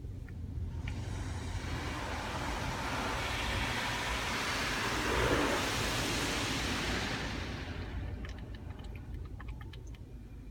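Car wash water spray sweeping over a car and passing off again, a rushing hiss that swells to a peak midway and fades, over a steady low hum. Scattered light ticks come near the end.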